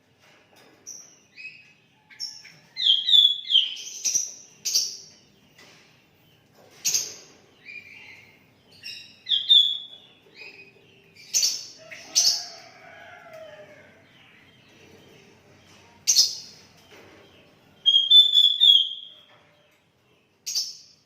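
Sooty-headed bulbul (kutilang) singing: a string of short whistled phrases and chirps, broken by several sharp, louder calls.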